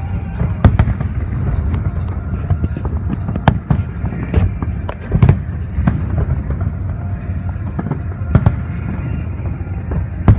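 Aerial fireworks bursting: irregular sharp bangs and crackles, a few of them much louder, over a steady low rumble.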